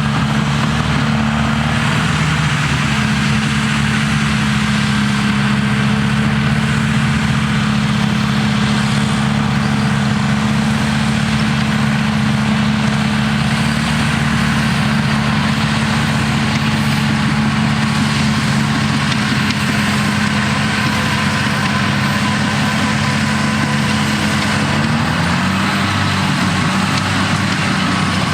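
Cat D6T bulldozer's six-cylinder diesel engine running steadily, its pitch dropping slightly near the end.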